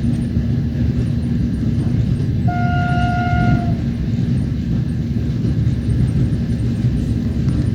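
Train running, the steady rumble of its wheels on the track heard from a carriage window. About two and a half seconds in, a single horn blast on one steady pitch lasts about a second.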